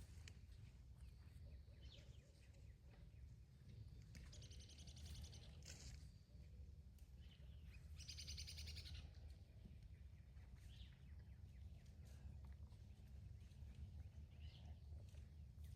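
Faint outdoor birdsong: two quick trills of rapidly repeated high notes, each about a second long, a few seconds apart, with scattered faint chirps over a low steady rumble.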